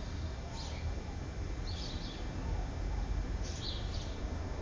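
Small birds chirping in short high bursts, about three times a second or so apart, over a steady low rumble.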